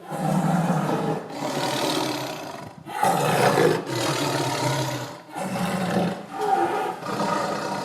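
Big cat roaring repeatedly: several loud, rough roars with short breaks between them.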